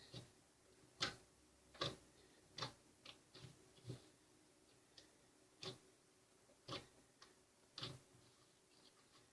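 A series of light clicks or taps at uneven spacing, roughly one a second with a few coming closer together, over a quiet room.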